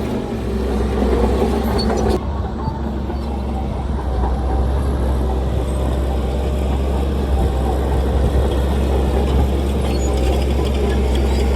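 Heavy diesel engine of earthmoving machinery running steadily with a deep drone; the higher hiss over it drops away suddenly about two seconds in.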